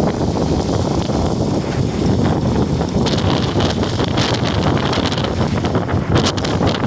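Strong storm wind buffeting the microphone: a loud, continuous low rumble with gusty crackles.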